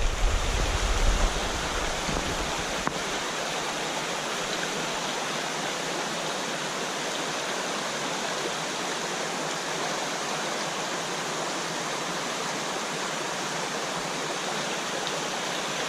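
Shallow mountain headwater stream running over rocks in a small run: a steady rush of water.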